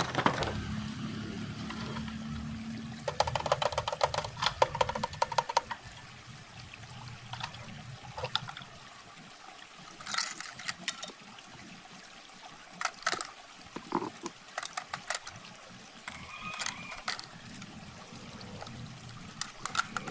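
Handling of a plastic toy truck and its packaging: a low hum for the first two seconds, a quick run of clicks about three seconds in, then scattered clicks, knocks and rustling.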